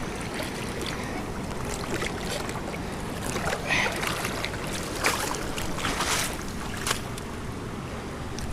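River water rushing steadily over rocks, with a few short splashes or knocks about halfway through.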